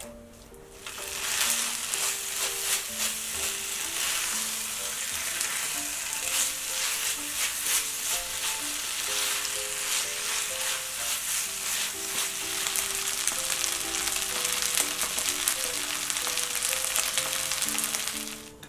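Kimchi fried rice sizzling and crackling in a hot pan as it is stir-fried with a silicone spatula. The sizzle starts about a second in, once the heat is back on, and cuts off suddenly near the end.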